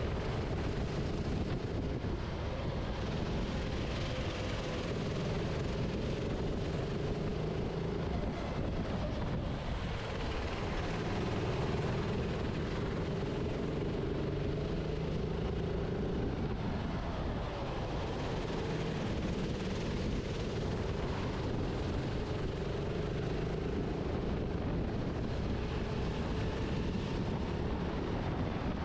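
Go-kart engine heard onboard, its pitch rising and falling again and again as the driver accelerates and lifts through corners, over a steady rush of wind and tyre noise.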